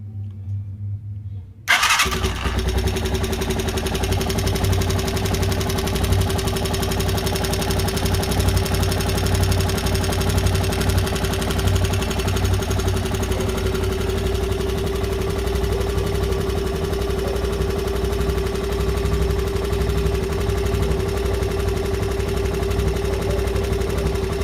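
Car engine running steadily, coming in abruptly about two seconds in, with a steady whine over its low rumble.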